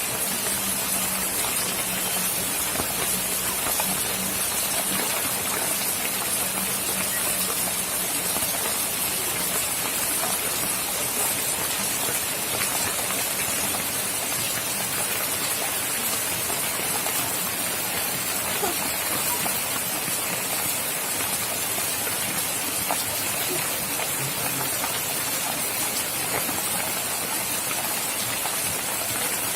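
Steady rain falling, an even hiss of rain on surfaces that holds at one level throughout.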